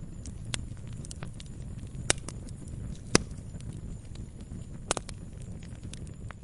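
Wood campfire crackling: irregular sharp pops and snaps, three of them louder (about two, three and five seconds in), over the low steady rumble of the burning fire.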